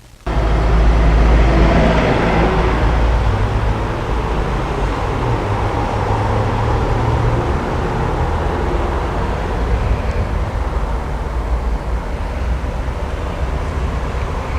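Mercedes-AMG CLA45's turbocharged 2.0-litre four-cylinder engine running with a deep, steady exhaust note. It cuts in suddenly, is loudest in the first two seconds, then eases slightly and holds steady.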